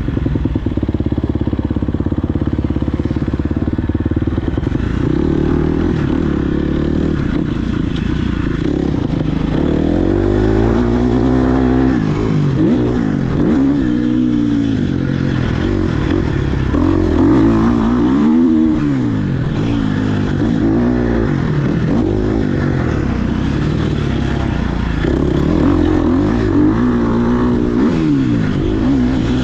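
Dirt bike engine being ridden hard, revving up and dropping back again and again with each throttle change. It is fairly steady for the first few seconds, then its pitch swings up and down every second or two.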